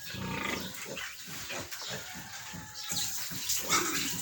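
Young piglets grunting and squealing in short, irregular calls, several a second. A rushing, hissing noise joins them about three seconds in.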